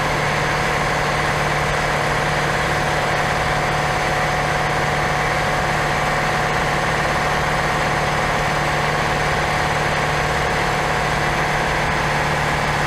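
Air compressor running with a steady, constant hum.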